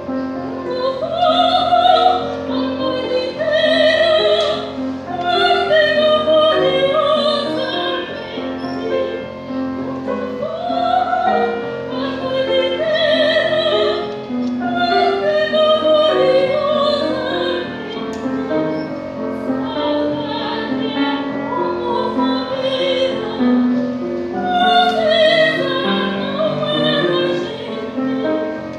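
Classical female voice singing an art song with wide vibrato, over piano accompaniment.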